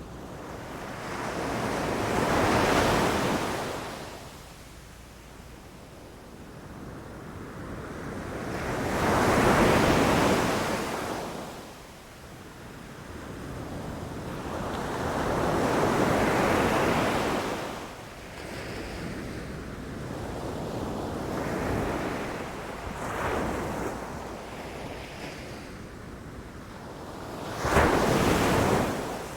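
Sea waves breaking on a beach, each one swelling to a rushing crash and washing back, about every six seconds, with a shorter, sharper break near the end.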